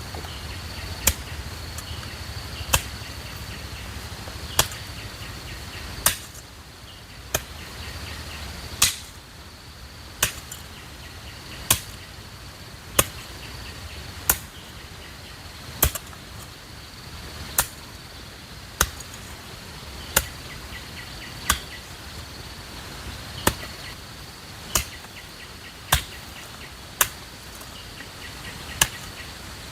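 Sharp chopping strikes, repeated at an even pace of about one every one and a half seconds, over a steady high insect drone.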